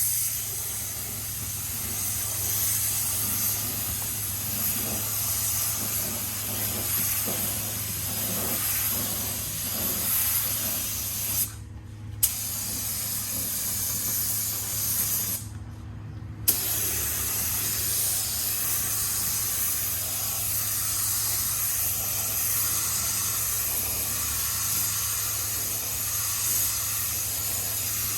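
Air spray gun spraying primer: a steady loud hiss, with the trigger let go twice briefly around the middle, under a steady low hum.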